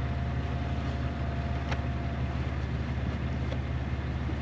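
Vehicle engine running as the car drives slowly, a steady low hum heard from inside the cabin, with a faint click about two seconds in.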